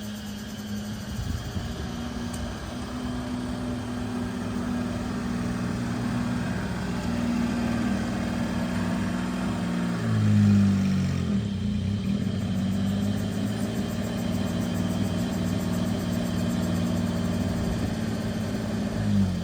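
Daewoo small truck's engine running under way, its pitch climbing slowly. About halfway through the revs drop sharply and climb back, as at a gear change, then the engine runs steady before the revs fall away at the end.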